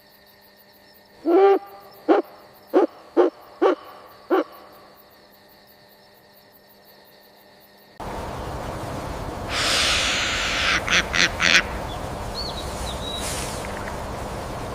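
An owl hooting: one longer hoot, then five short hoots at the same low pitch over about three seconds. About eight seconds in, a different recording cuts in with a steady rushing background, a loud hissing burst and a quick run of sharp clicks.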